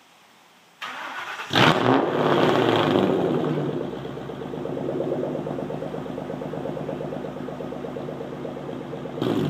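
Straight-piped 2003 Ford Mustang Mach 1 4.6-litre DOHC V8, with no catalytic converters or mufflers, cranking and starting. It catches with a loud flare about a second and a half in, then settles into a steady idle, with a short rise near the end.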